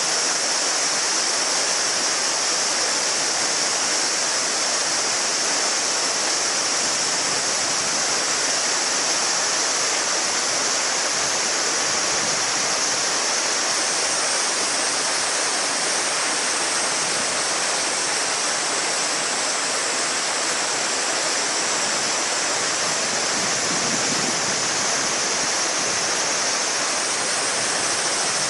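A shallow mountain river babbling steadily over stones, with a chorus of summer cicadas (semishigure) droning in a continuous high-pitched band over the water.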